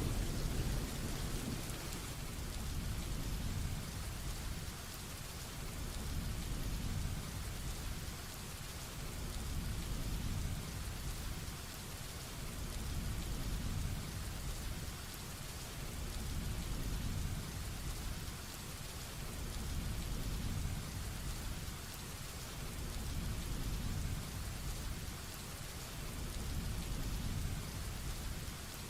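Heavy rain falling steadily, with a low rumble of thunder dying away in the first second or two and a softer low rumble swelling and easing every few seconds.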